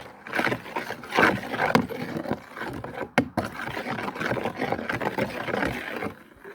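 Close, loud rustling and scraping with many small crackles, as leaves are handled and dropped into a potion of water and dirt.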